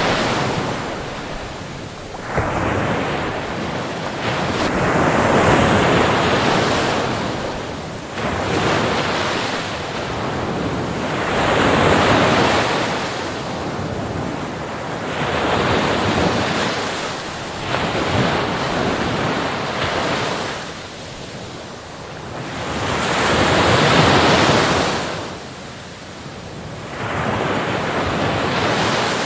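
Ocean waves breaking on a beach: surf surges in and washes out, swelling and fading every three to four seconds.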